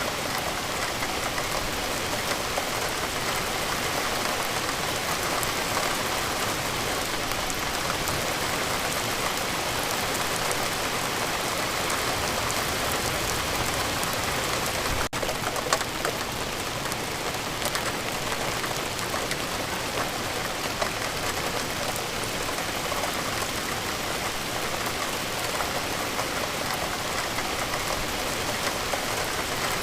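Steady rain falling, a dense even hiss scattered with sharp individual drop ticks, with a momentary dropout about halfway through.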